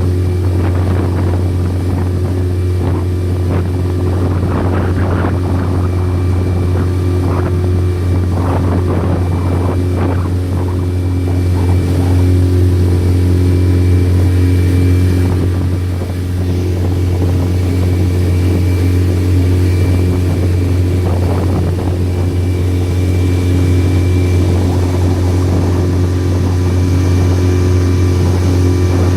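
A motorboat's engine runs at a steady speed as a deep, unchanging drone, with some rushing noise in the first half.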